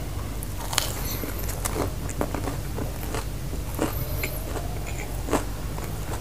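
A man chewing a big bite of chicken pizza close to the microphone, with scattered wet mouth clicks, the loudest about a second in and near the end, over a steady low hum.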